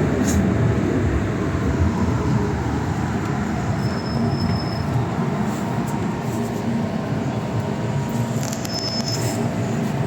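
Inside a moving MTR M-train metro car: a steady rumble of wheels and running gear with a faint motor hum. Two brief high-pitched wheel squeals come about four seconds in and again near the end.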